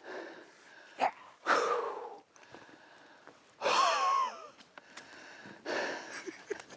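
A man breathing hard in excitement: several heavy breathy exhales, the one about four seconds in carrying a wavering whine.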